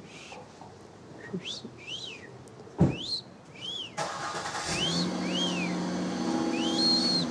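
Parakeet giving repeated short chirping calls that rise and fall. About four seconds in, a motor starts with a click and then runs with a steady hum under the chirps.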